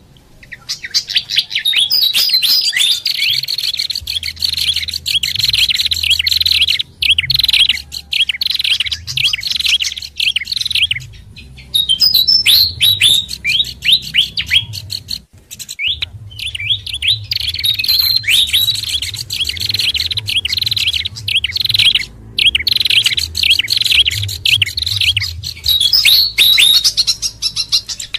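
Dense, rapid chattering chirps of small songbirds from a bird-lure recording mixing fantail, babbler and prinia calls, with brief pauses about 11 and 15 seconds in.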